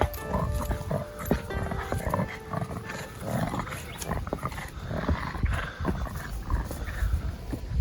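Sounds of a Boston Terrier close by, over a low rumble of wind on the microphone.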